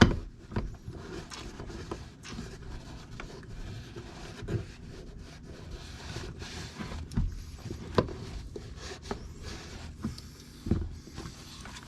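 Irregular knocks, clicks and rubbing from a differential case half being handled and cleaned out of old grease and grit. The sharpest knocks come right at the start, twice around the middle, and near the end.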